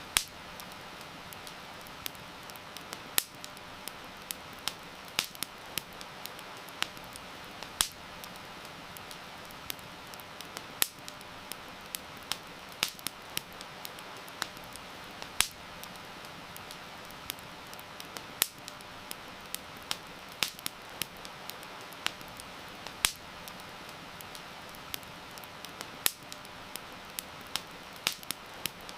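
Wood campfire crackling, with frequent sharp, irregular pops over a steady hiss of rain.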